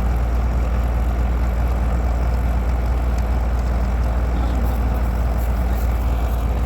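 Heavy diesel engine running steadily at an even, low speed.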